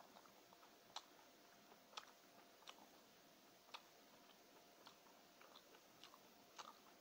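Faint close-up chewing of a mouthful of mutton biryani: soft, irregular wet mouth clicks, a few louder ones about a second apart, over a faint steady hum.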